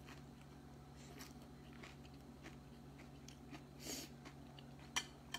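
Soft, quiet chewing and mouth sounds of someone eating a forkful of soup vegetables and bean sprouts, over a low steady hum. A couple of sharp clicks come near the end.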